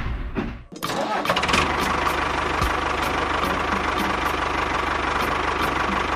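A small motor of a miniature model tractor/bulldozer starts up about a second in and runs steadily, with a constant whine.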